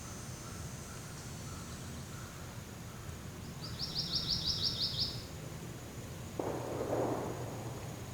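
A bird's short, rapid, high-pitched trill of about eight notes over a quiet woodland background, followed about six seconds in by a sudden rustle lasting about a second.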